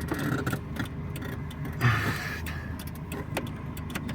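Van engine running at low revs, heard from inside the cab, with scattered light clicks and rattles and a brief louder rustle about two seconds in.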